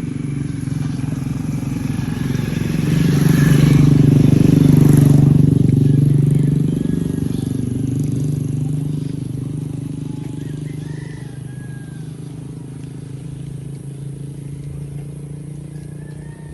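A motor vehicle passing close by: its engine grows louder to a peak about four to five seconds in, then slowly fades away.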